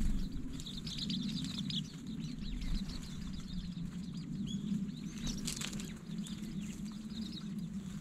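Japanese white-eyes twittering: clusters of rapid, high, thin chirps about a second in, again past midway and near the end, with a brief rustle a little past midway. A steady low hum of background noise lies underneath.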